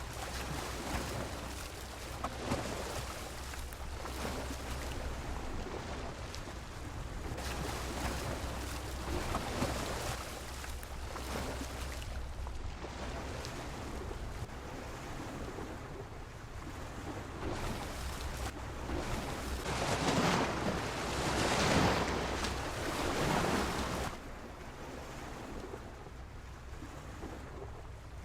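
Sea waves washing against a pier, the surf noise swelling and falling back in repeated surges, the biggest about two-thirds of the way through. A low wind rumble on the microphone runs underneath.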